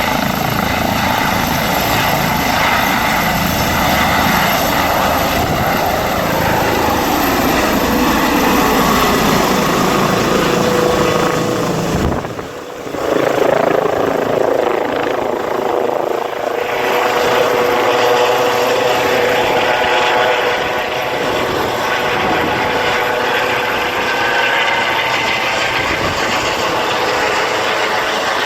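Airbus EC135 twin-turbine helicopter running, a steady loud mix of turbine whine and rotor noise. About twelve seconds in the sound dips briefly, and after that the deep rotor sound is weaker and a steady mid-pitched tone stands out.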